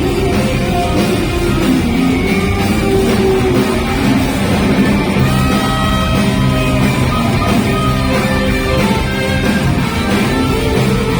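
Live rock band playing at full volume, a bending guitar line over bass and drums, with no singing.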